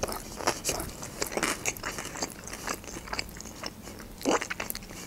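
A person chewing a mouthful of sushi roll: a quick, irregular run of wet clicks and soft crunches, the loudest a little past four seconds in.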